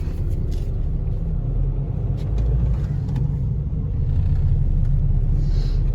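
Steady low rumble of a moving vehicle, engine and road noise while driving, with a short hiss near the end.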